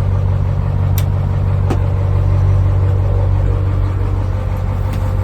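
International truck engine idling steadily, with two short sharp clicks about a second in and shortly after.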